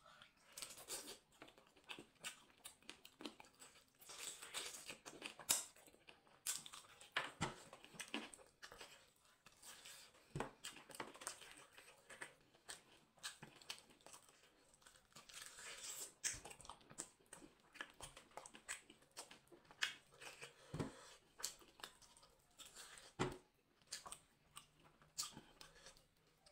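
Chewing and lip-smacking on spicy chicken drumstick meat, with meat being pulled from the bone by hand: many short, wet, irregular smacks and clicks.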